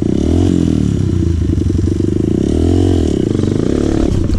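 Dirt bike engine revving, its pitch rising and falling twice.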